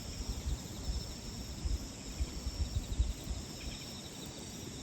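Crickets chirping steadily over a wood campfire burning with irregular low pops and rustling that thin out after about three seconds.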